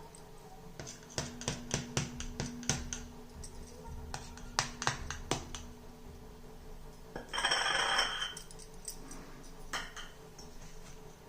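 A run of light clicks and taps from pressing chopped nuts into barfi on a plate, then a short rustle about seven seconds in.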